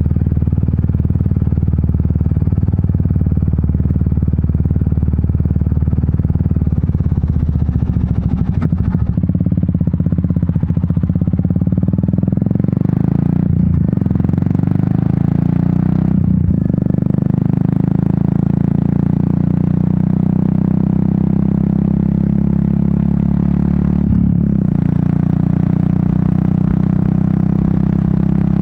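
Royal Enfield Meteor 350's single-cylinder engine and exhaust running under way. The engine note rises about a third of the way in and holds higher, with three brief dips in the sound later on.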